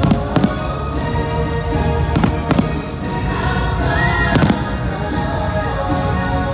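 Fireworks bursting in a string of sharp bangs over loud orchestral show music.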